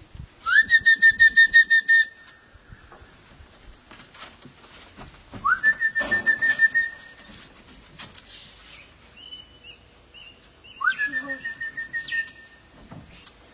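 A person whistling to call parrots: three long whistles a few seconds apart, each sliding quickly up in pitch and then held with a rapid flutter.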